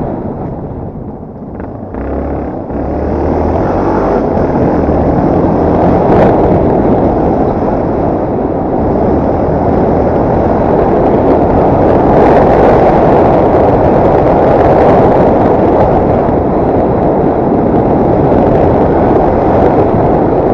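Dirt bike riding under way, its engine running beneath heavy wind rumble on the microphone. The level dips briefly about a second in, then rises again and stays steady.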